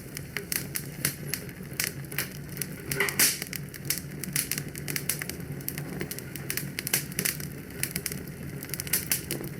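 Fireplace fire crackling, with frequent irregular sharp pops over a low steady rumble.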